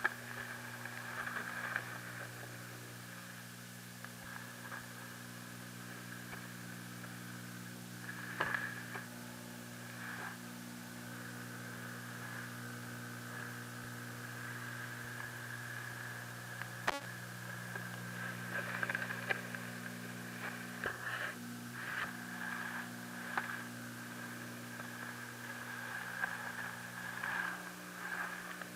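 Aquarium equipment humming steadily, with a few faint clicks and taps scattered through.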